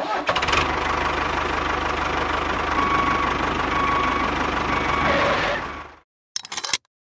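A small engine running steadily with a fast, even chugging pulse. It cuts off abruptly about six seconds in, followed by a brief snatch of the same sound.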